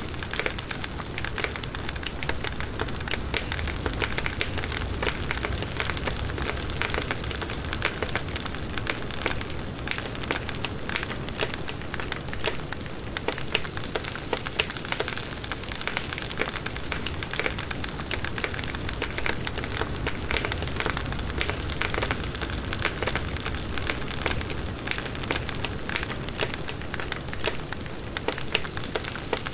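Wood fire burning, with steady dense crackling and popping of firewood.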